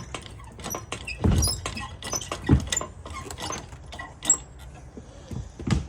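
Irregular metallic clinks and knocks of tools and hardware being handled in an engine bay, with a few heavier thuds about a second in, at two and a half seconds and near the end.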